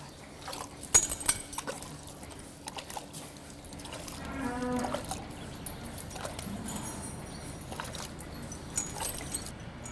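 Cowshed sounds at milking time: sharp metal clicks and knocks about a second in, a short animal call a little after four seconds, and a steady low hum underneath.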